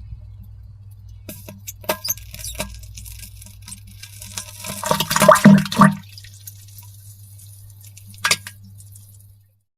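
Wet splattering and plopping into toilet water, like diarrhea, over a steady low hum. The splashes are scattered at first, bunch into a louder flurry about five seconds in, and end with one more splash near eight seconds.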